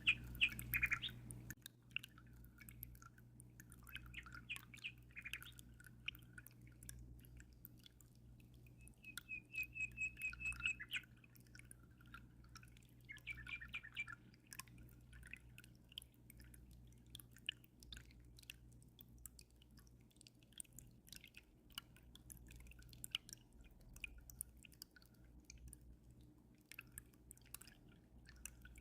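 Small birds chirping in short, scattered bursts, with a rapid run of repeated notes about ten seconds in. Underneath, faint dripping of aquarium water and a steady low hum.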